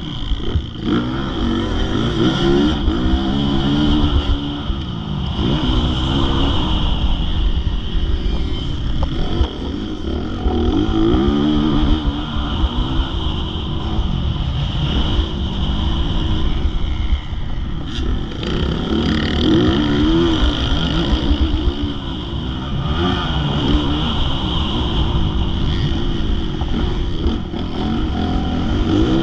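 Motocross bike engine revving up and falling off again and again, as on a lap of a track, over a heavy low rumble.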